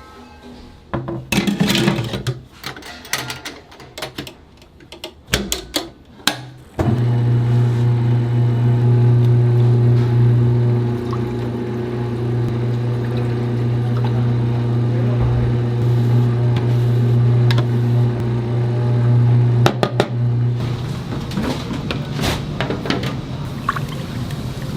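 A few scattered knocks and clicks, then a loud, steady electric hum with a low pitch sets in about seven seconds in. It gives way to a broader rushing noise at about twenty seconds.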